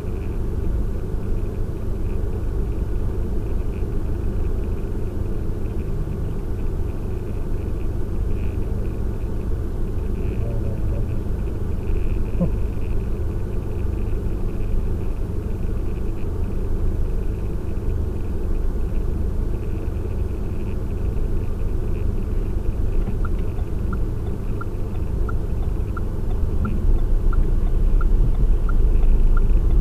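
Steady low rumble of a car's cabin picked up by a dashcam, with the engine idling in stopped traffic. A light regular ticking of about two a second joins in the last several seconds, and the rumble grows a little louder near the end.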